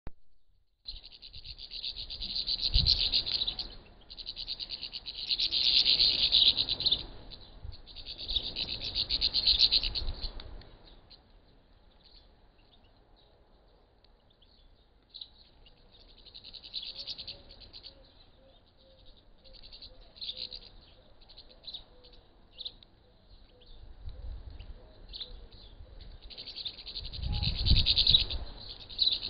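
A flock of small birds chirping and twittering in dense bursts of a few seconds each, with scattered single chirps in between.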